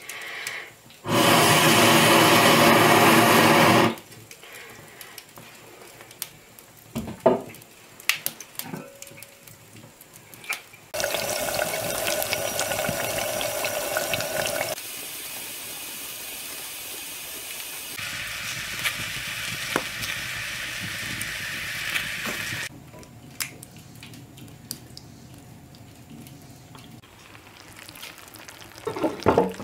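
Breath rushing through a long iron blow tube onto a hearth fire for about three seconds, followed by light crackling from the fire. Then eggplant slices sizzle steadily as they fry in hot fat in an iron pot over the coals, and near the end an iron pot clunks a few times as it is set on a wrought-iron trivet.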